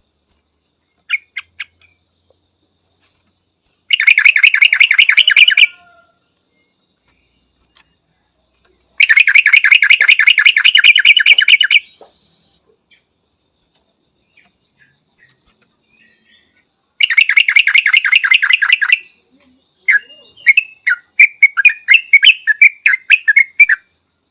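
Yellow-vented bulbul calling. Three loud bursts of rapid chattering notes, each lasting one and a half to three seconds, are followed near the end by a run of separate, varied chirps.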